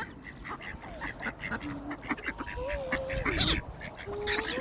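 A flock of ducks quacking busily, many short calls overlapping, with a few longer sliding calls mixed in, as they crowd in to be fed bread.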